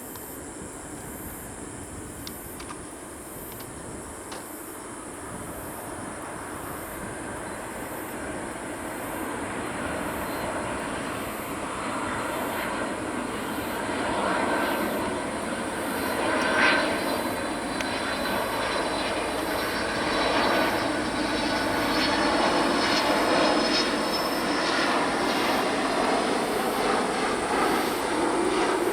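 Airplane engine noise growing steadily louder over about fifteen seconds as the plane approaches, then staying loud as a rushing noise.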